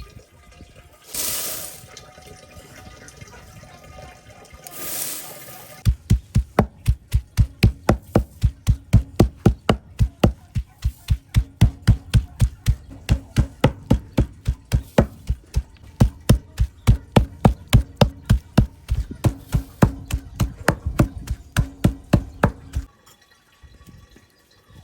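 Food being chopped by hand with a knife: steady, heavy knocks about three a second, which stop abruptly near the end. Two short hissing rushes come before the chopping starts.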